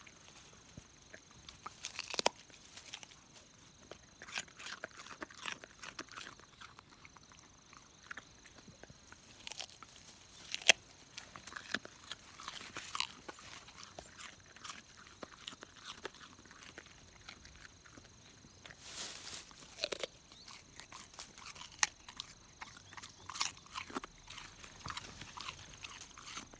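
Border collie chewing and crunching on something, with irregular sharp crunches and bites.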